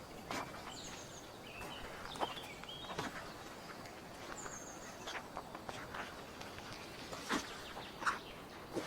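Forest ambience: small birds giving short, high chirps and quick falling calls over a steady hiss, with scattered sharp crunches of footsteps on the forest floor.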